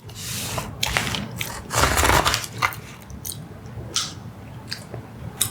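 Close-miked eating sounds: a person biting and chewing a mouthful of dessert, with a few short clicks.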